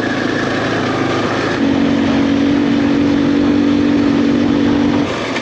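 Motorcycle engine running while riding, over a rush of noise; about one and a half seconds in it settles into a steady, unchanging note, as at a constant cruising speed.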